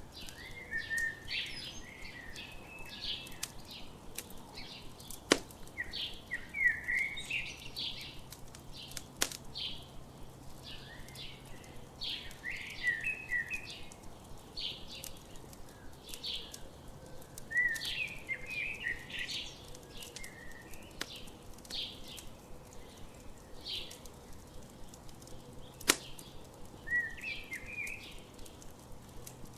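Small birds chirping and singing in quick, repeated short phrases, with a few sharp pops from a crackling campfire, the loudest about five seconds in and again near the end.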